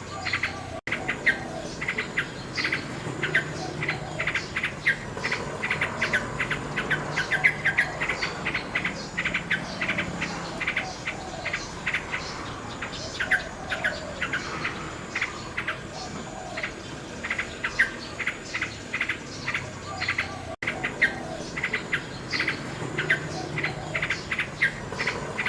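Common nightingale singing continuously, a dense run of rapid chirps, trills and short whistled notes, with a steady high insect trill underneath. The sound cuts out for an instant twice.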